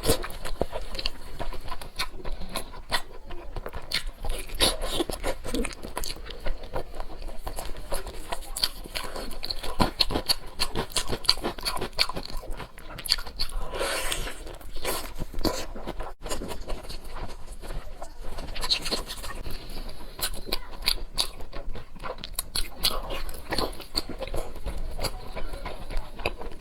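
A person eating close to the microphone: steady chewing and biting with crunching and wet mouth clicks, a few louder bites or slurps along the way.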